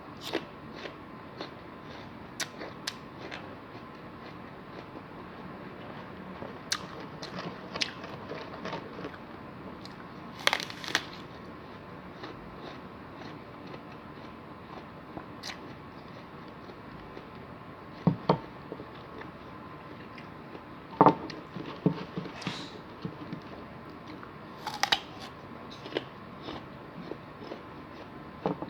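Close-up eating sounds: crunchy bites and chewing, heard as scattered sharp crackles and clicks, with a few louder knocks.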